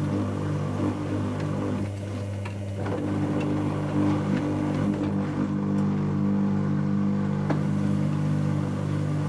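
Dyson Contrarotator CR01 washing machine running its wash cycle, the motor driving its two counter-rotating drums with a steady hum. The hum eases off about two seconds in and picks up again a second later, with a few light clicks.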